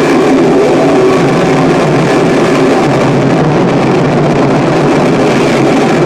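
Harsh noise music: a loud, unbroken wall of distorted noise, strongest in the low-middle range, with no beat or pauses.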